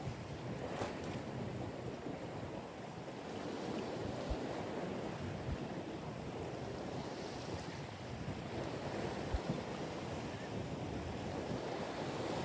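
Steady rush of wind on the microphone over waves washing in, with a few brief low bumps in the middle.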